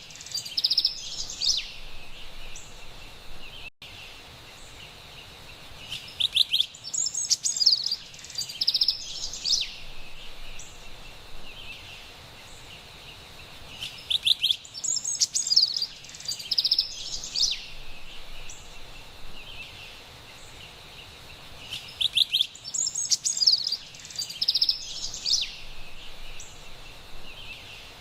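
Carolina wren singing bright, rapid phrases of repeated high notes, in bursts of about three seconds that come back about every eight seconds, three times here, over a steady faint high background hiss.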